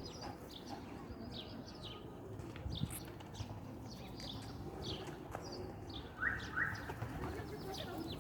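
Small birds chirping again and again in short, high, falling notes, with two harsh crow caws about six seconds in.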